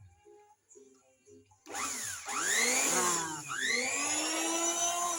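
1140-watt electric wood planer with a 15.5 cm cutter switched on about a second and a half in, its motor and cutter block running up to speed with a rising whine. It slows briefly around the middle and speeds back up, then starts to wind down near the end.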